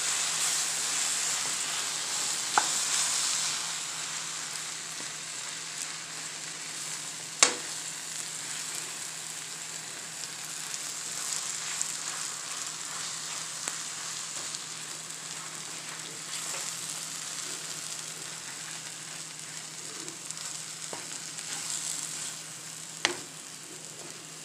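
Mashed potato frying with onion and tomato in a frying pan, sizzling steadily while a wooden spatula stirs it; the sizzle eases off over the first few seconds. A few sharp knocks of the spatula against the pan stand out, the loudest about seven seconds in.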